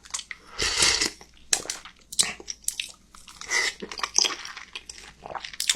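Close-miked chewing and wet mouth sounds from eating xiaolongbao soup dumplings, coming in irregular short spells.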